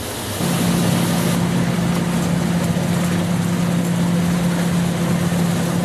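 Steady engine drone for a toy combine harvester, an even, unchanging hum that comes in about half a second in.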